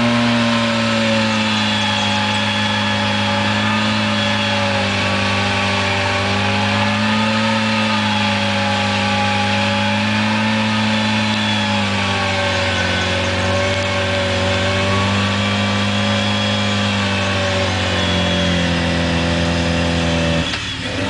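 Suzuki Samurai's four-cylinder engine held at high revs as it pushes through deep water, the pitch wavering up and down with the load. The revs drop about eighteen seconds in, and the sound falls off near the end.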